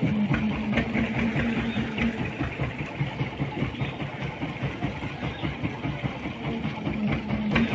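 A heavy engine idling steadily, a low, fast throb under an even hum.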